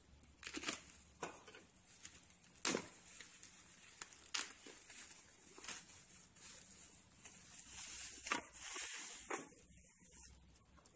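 Bubble-wrap packaging being cut open with a utility knife and handled: scattered sharp crackles and snaps of the plastic, then a longer stretch of crinkling as the box is pulled out of the wrap near the end.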